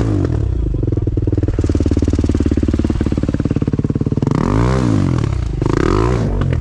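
Enduro dirt bike engine running at a steady idle, then revved briefly twice near the end.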